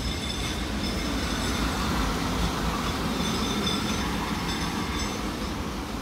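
South Western Railway electric multiple unit running past, a steady rumble of wheels on rails with recurring brief high-pitched squeals from the wheels, easing a little near the end as the train draws away.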